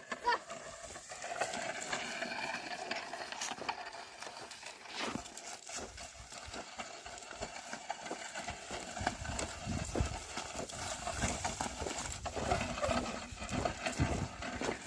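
Oxen pulling a plough through a field: scattered hoof steps and knocks over outdoor background noise.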